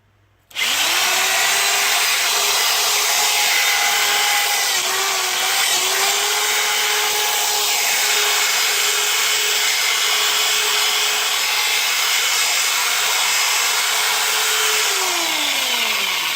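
Power drill spinning a brush attachment against a brick wall to scrub off loose mortar and dust. The motor starts about half a second in and runs steadily with a few slight dips under load, then winds down with falling pitch near the end.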